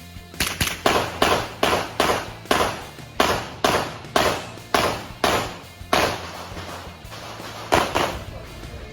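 Rapid shots from an Armscor M22 .22 rimfire rifle: about a dozen sharp reports in quick, uneven succession, then a pause and one last shot near the end.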